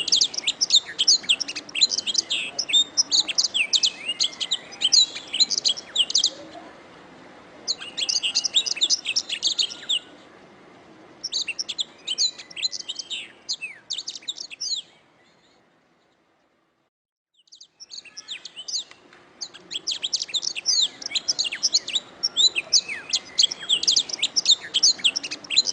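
Domestic canary singing long, fast, high-pitched trilled and warbled phrases. The song breaks off briefly a few times and stops for about two seconds around the middle before resuming.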